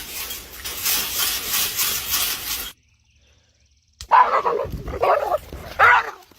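A dog giving short pitched barks and whines, after a stretch of rustling noise that stops abruptly.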